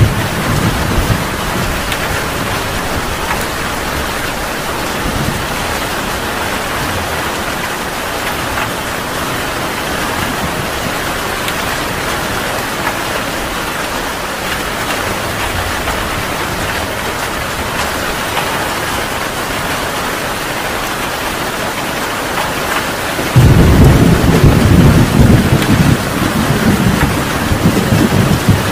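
Heavy rain falling steadily as an even hiss. Near the end a loud, low thunder rumble breaks in suddenly and rolls on for a few seconds before easing.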